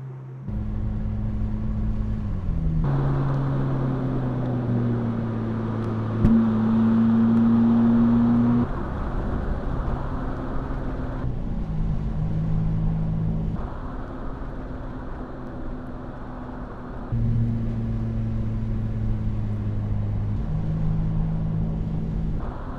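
Mercedes-AMG SL 43's 2.0-litre turbocharged inline-four (M139) running, its exhaust note holding steady revs in a series of short takes that change abruptly from one to the next. About six seconds in there is a sharp pop, followed by a louder, higher note for a couple of seconds.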